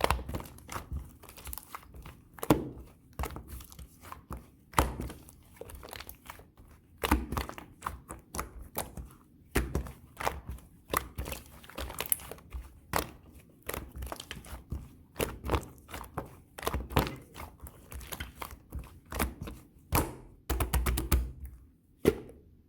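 Clear slime with small round bead toppings being squeezed, poked and folded by hand: irregular sticky clicks, pops and crackles, with a louder pop every couple of seconds and a dense run of crackling about 20 seconds in.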